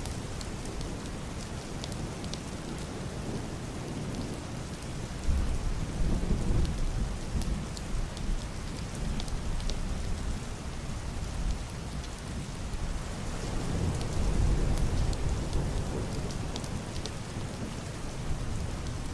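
Heavy rain on a roof and window glass: a steady hiss with single drops ticking. Two low rolls of muffled thunder swell through it, the first starting suddenly about five seconds in, the second building about thirteen seconds in.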